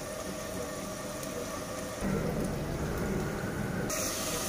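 Onion and tomato masala sizzling as it fries in a clay pot, a steady hiss that gets louder about two seconds in.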